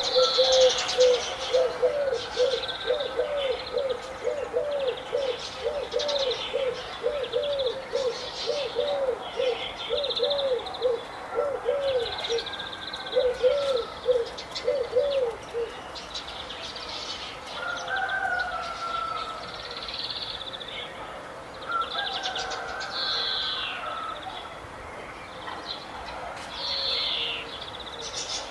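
Several birds chirping and calling, with high quick chirps throughout. For about the first half, one bird repeats a low call about twice a second, then stops.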